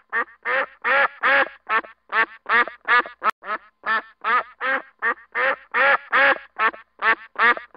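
Duck quacking in a rapid, steady series of short quacks, about three or four a second.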